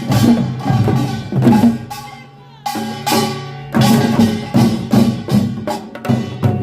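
Korean pungmul percussion band playing: drum and gong strikes in a quick rhythm, dying away about two seconds in and starting again about a second later.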